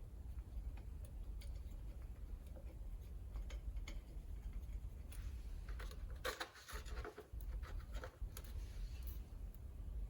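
Scattered light clicks and taps of hand work on a truck's front wheel hub, with a denser cluster about six seconds in, over a steady low rumble.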